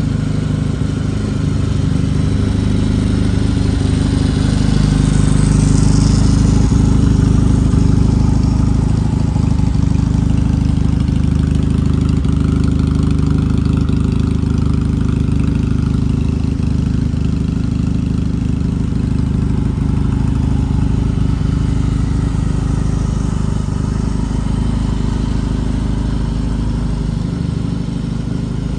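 A 1951 Royal Enfield 500 Twin's air-cooled parallel-twin engine running steadily. It gets a little louder between about four and eight seconds in.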